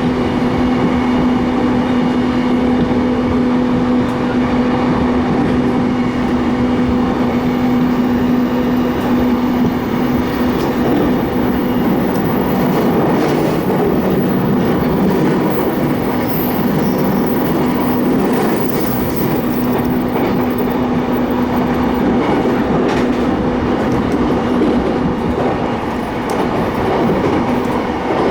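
Keiyo Line rapid electric train running at speed, heard from inside the car: steady rolling noise with a low, even motor hum that fades for a while around the middle and comes back, and scattered clicks from the wheels over the track.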